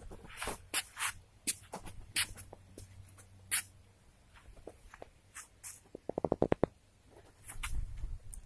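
Irregular small clicks and knocks of something being handled, with a quick run of about a dozen rapid clicks about six seconds in and a low rumble near the end.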